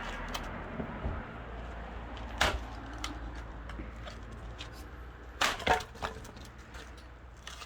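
Axe blows splitting a knotty firewood log. There is one sharp crack about two and a half seconds in, then three more strikes close together about three seconds later, with wood splintering.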